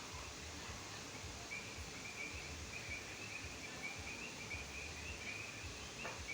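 Frogs calling: a run of short, high chirps repeating closely together, starting about a second and a half in, over a steady background hiss and low rumble. A single brief click comes near the end.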